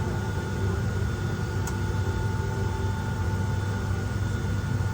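Steady cabin hum inside a Boeing 757-200 airliner, deep and even, with a few faint high whine tones held steady over it and a single faint tick about two seconds in.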